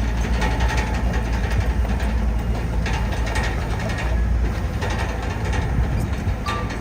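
Heavy diesel engine of earthmoving machinery running steadily, with a few short metallic clanks.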